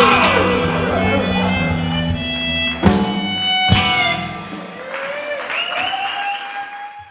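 Live rock band with violin and guitar closing a song: full sustained chords, two sharp final hits about a second apart, then the low end drops out and high sliding notes ring on and fade.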